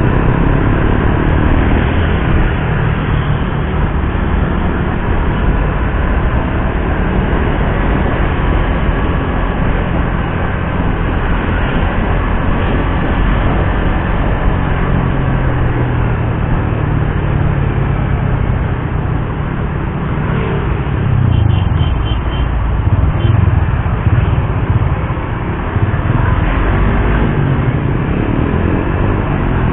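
Suzuki GSX-R150's single-cylinder engine running under way on the road, with a steady rush of noise. About two-thirds through, the engine note rises and falls with changes of throttle.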